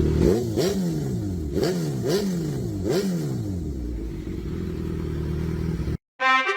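Suzuki GSX-R1000 inline-four motorcycle engine revved in about five quick throttle blips in the first three seconds, each one falling back down, then idling steadily. It cuts off suddenly near the end, followed by the start of brass-led music.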